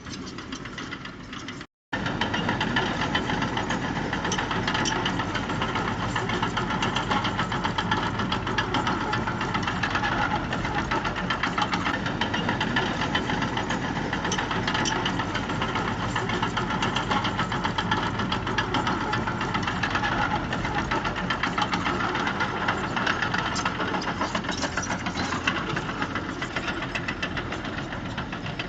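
Diesel engine of a bulldozer or dump truck running steadily with a dense clatter, broken by a brief gap about two seconds in, after which it is louder.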